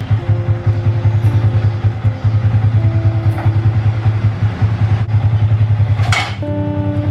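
Yamaha Vixion (FZ150) single-cylinder motorcycle engine running under way, with a fast, even pulsing exhaust note. A brief rushing noise comes about six seconds in.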